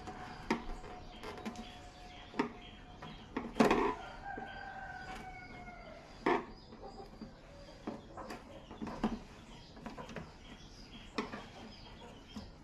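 A rooster crowing in the background, with scattered sharp clicks and knocks from hands handling parts and tools; the loudest knocks come a little before and after the middle.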